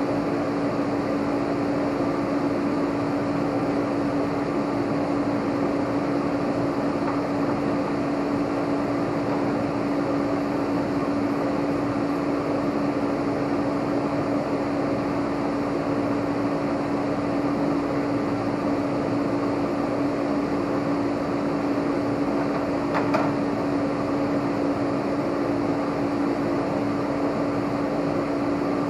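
Steady machine hum: one constant tone over an even hiss, unchanging throughout, with a single faint click about three-quarters of the way through.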